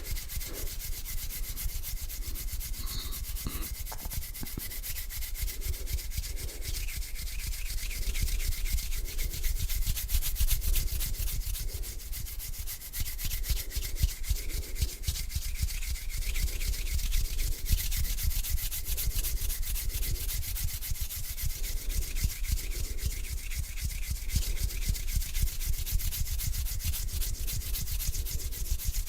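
Two palms rubbing together in slow back-and-forth strokes, a dry, scratchy swishing that swells about once a second.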